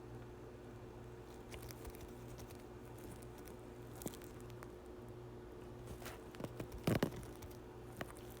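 Faint scattered light taps and small handling noises, with one louder short knock about seven seconds in, over a low steady room hum.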